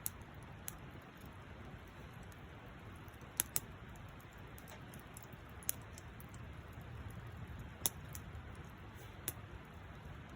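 Wood fire crackling: a steady low hiss with sharp, irregular pops every second or two.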